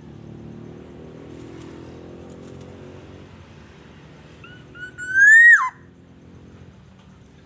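Black-naped oriole giving one loud whistled call about five seconds in: a short note, then a slurred whistle that rises and drops sharply at the end. A low, steady hum runs underneath.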